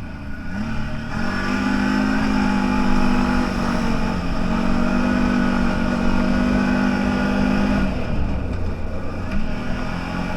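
A CFMoto 1000 off-road vehicle's engine under throttle. It revs up about a second in and holds a high, steady note with a brief dip. It drops back around eight seconds in, then picks up again near the end.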